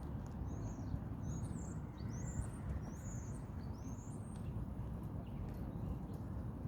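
A songbird singing a run of short, high, sliding whistled phrases for about four seconds, then falling silent, over a steady low rumble.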